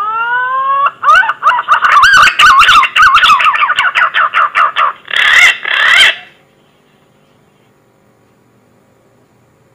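Green pigeon (punai) calling, as a recorded lure call. A rising whistle is followed by a rapid run of wavering, warbling whistled notes, ending in two louder, rougher notes; then it stops about six seconds in.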